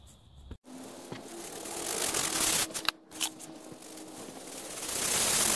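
Water running into a container of fine sieved gravel, a steady hiss that grows louder as it fills.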